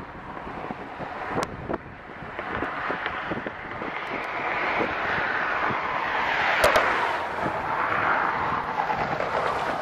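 Canadian Pacific Holiday Train approaching, its rushing noise building steadily and loudest a little past the middle, with a few sharp clicks.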